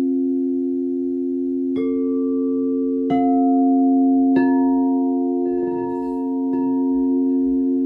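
Singing bowls ringing: several low tones held and overlapping. Three clear metal strikes come about every second and a half, each adding a new ringing note, then two softer strikes near the end.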